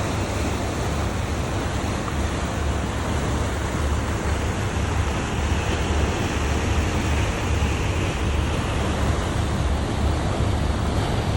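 Steady low rumble and rushing noise aboard a motor yacht under way at slow cruising speed: engine drone mixed with wind on the microphone and water along the hull.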